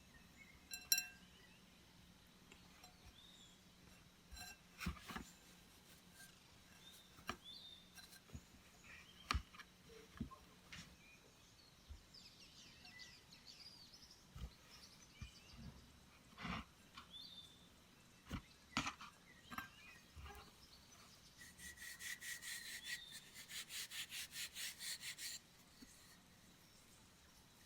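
Quiet outdoor ambience with scattered light taps and knocks and faint bird chirps. Near the end comes a rapid rattling trill of several pulses a second, lasting about four seconds.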